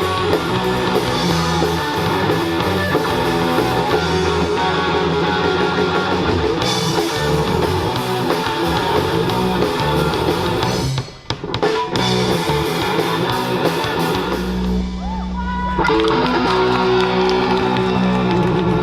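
Live rock band playing: electric guitar, bass guitar and drum kit. About eleven seconds in the music briefly breaks off, then picks up again over a held low bass note before the full band comes back in.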